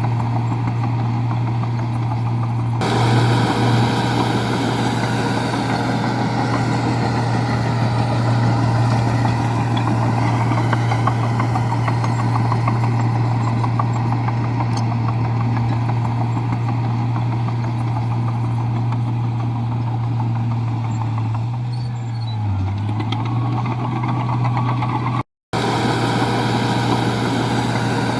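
Komatsu bulldozer's diesel engine running steadily under load, with a wider clatter and rumble joining about three seconds in as it works. The engine note dips briefly near the end, and the sound cuts out for a moment shortly before the end.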